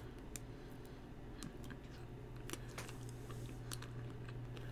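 Faint crunching and mouth clicks of someone biting and chewing a small ice cream cone with a crisp white-chocolate shell, over a steady low hum.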